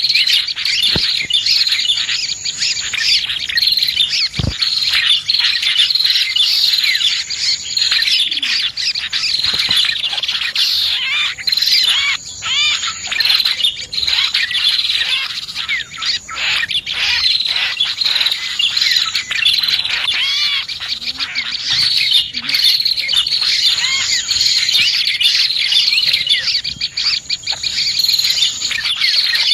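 Dense, unbroken chorus of small birds, prenjak (prinia) among them, chirping and twittering rapidly in quick overlapping calls. It is a bird-lure (pikat) call mix meant to draw small birds in.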